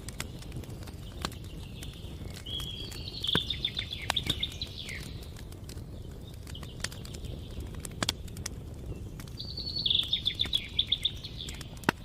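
Campfire crackling with scattered sharp pops over a low steady rumble. A songbird sings twice, about two and a half seconds in and again near ten seconds: each song a fast trill of repeated notes that ends in a falling slur.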